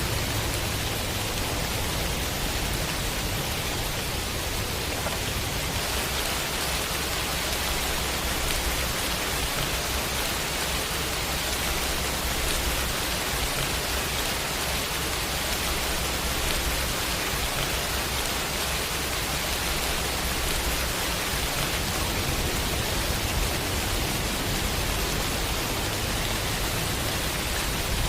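Heavy rain falling steadily, an even hiss with no let-up, with a low rumble underneath through much of the middle.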